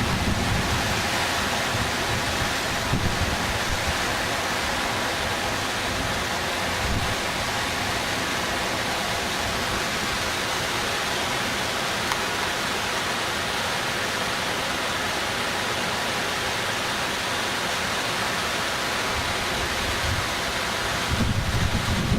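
Steady rushing of water in flood, an even unbroken noise, with a little low wind buffeting on the microphone at the very start.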